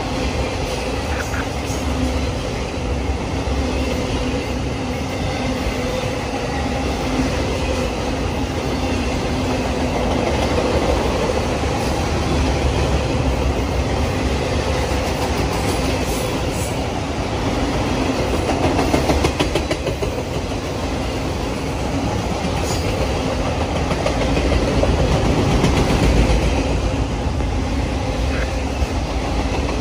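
A train rolling past: the continuous rumble of railroad cars on the rails with a steady low hum, swelling a little twice, just past the middle and about three-quarters of the way through.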